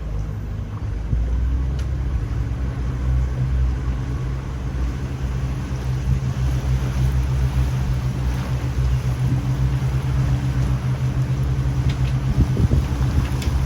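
Speed boat's engine running steadily, a low hum that grows a little louder about a second in.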